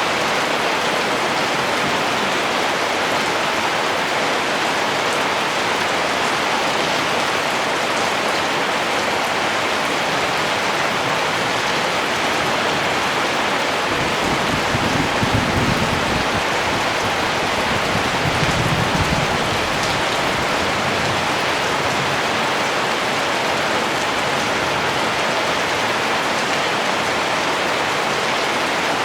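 Steady rain falling, an even hiss of drops. About halfway through, a low rumble swells twice under the rain for a few seconds.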